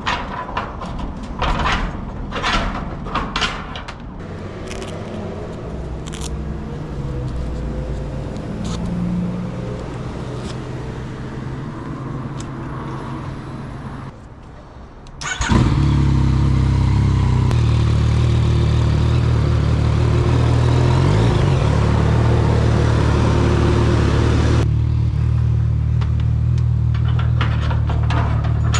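Yamaha MT-09 Tracer's three-cylinder engine running, with a string of sharp clicks in the first few seconds. About halfway through it drops off for a second or so, then comes back much louder at a steady pitch and holds there.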